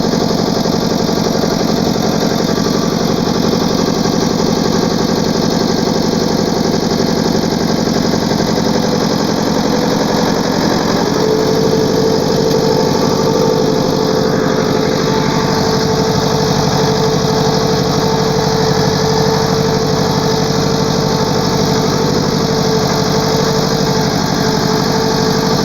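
Ford 5000 tractor engine running steadily. About eleven seconds in its note shifts and a higher steady tone joins in and holds.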